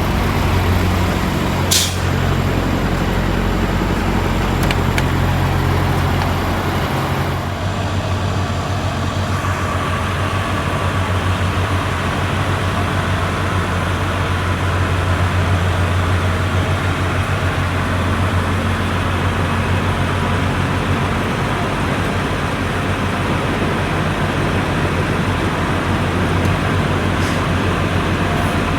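Semi-truck diesel engine running steadily with a low hum, with a brief sharp high sound about two seconds in and a couple of fainter ones later.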